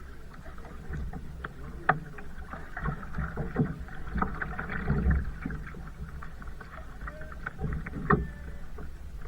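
Kayak being paddled: irregular splashing and dripping of paddle strokes in the water, with a low rumble underneath and two sharper knocks, one about two seconds in and one near the end.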